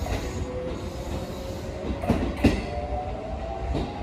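Shin-Keisei 8800 series electric train pulling away from the station, its motor whine slowly rising in pitch as it picks up speed. A few sharp clacks of the wheels over rail joints come around the middle and near the end.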